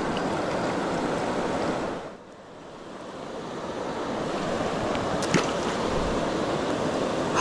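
Steady rushing of river water over falls, dropping sharply about two seconds in and building back up over the next couple of seconds.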